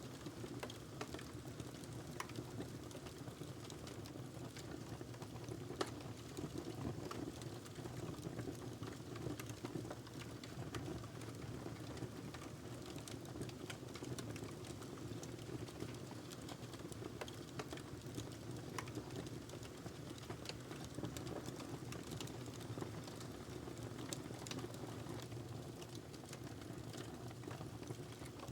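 Wood fire crackling in a fireplace: frequent sharp snaps and pops scattered over a steady low rush of the burning logs.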